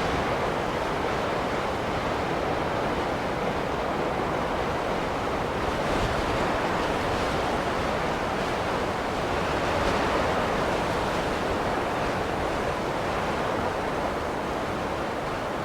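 Snowstorm wind blowing, a steady rushing that swells gently twice.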